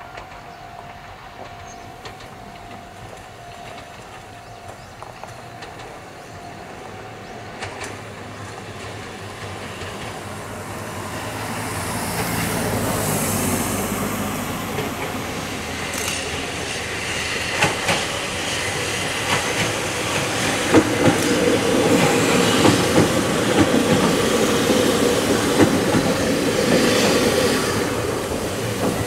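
Ohmi Railway 800 series electric train approaching from the distance, growing steadily louder, then running past with its wheels clattering over the rail joints in a run of regular clicks during the last several seconds.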